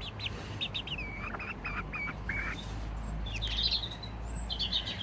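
Serama bantam chickens calling: a string of short high chirps, some falling in pitch, mixed with soft clipped clucks, and a quick run of chirps about three and a half seconds in.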